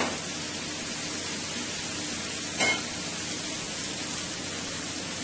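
Sliced onions and sweet peppers sizzling steadily in a hot skillet, with one short clink about two and a half seconds in.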